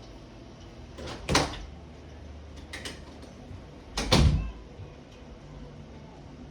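Two loud knocks or thumps about three seconds apart, the second one heavier, with a few lighter clicks between, over a steady low background hiss.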